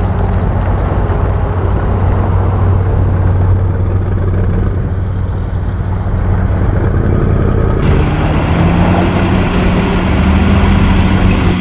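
Heavy earthmoving machine's diesel engine running steadily, its note rising and getting busier about two-thirds of the way through as the engine is worked harder.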